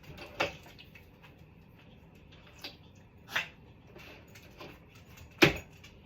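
Four short, sharp knocks and clacks of hard objects being handled, the last one, near the end, the loudest.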